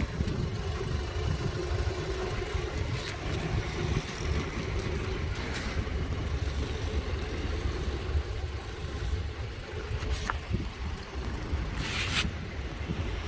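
Audi TTS's 2.0-litre turbocharged four-cylinder engine idling steadily, under wind rumbling on the microphone, with a few brief rustles.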